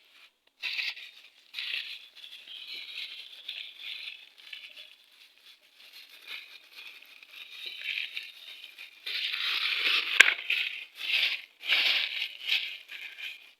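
Small metal engine parts rattling and clinking in hand during valve fitting on a cylinder head, with one sharp click a little after ten seconds in.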